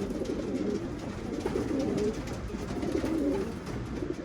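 Racing pigeons cooing in a loft: several birds' low warbling coos overlapping continuously.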